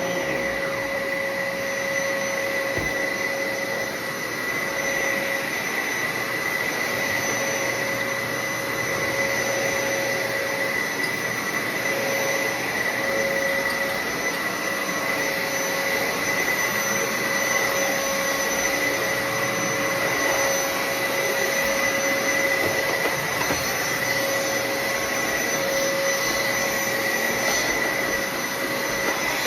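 Bissell Heavy Duty bagless upright vacuum running steadily with its brush roll switched off, a constant motor whine with a high tone over an even rush of air.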